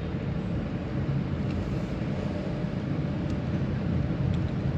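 Steady engine hum and road noise of a vehicle being driven, heard from on board, with a few faint ticks.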